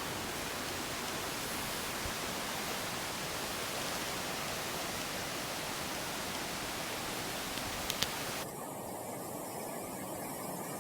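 Steady rushing hiss of a burn's flowing water. About eight and a half seconds in, the upper part of the hiss drops away abruptly, leaving it duller.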